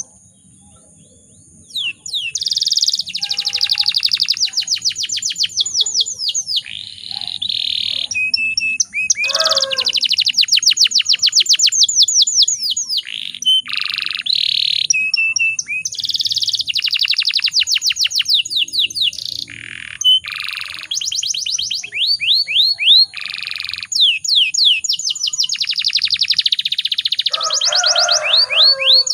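Domestic canary singing a long song of rapid rolling trills, fast runs of repeated notes sweeping in pitch, broken by short held notes. The song starts about two seconds in after a brief lull.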